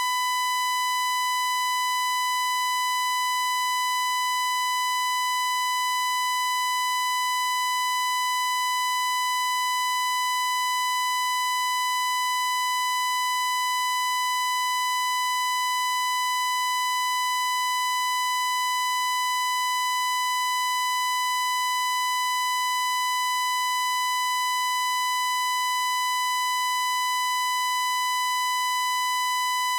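A steady high-pitched electronic tone held without a break or change in pitch, buzzy rather than pure, like a test tone or beep drawn out.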